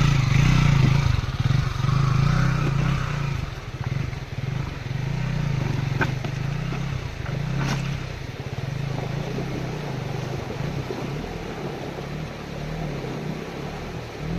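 Motorcycle engine running steadily, a little louder at the start, with two sharp clicks around six and eight seconds in.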